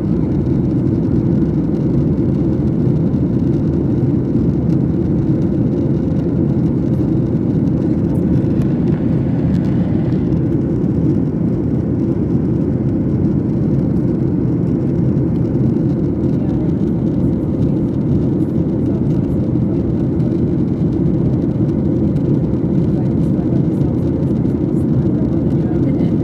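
Jet airliner noise: a steady, unbroken low roar with a faint steady hum above it.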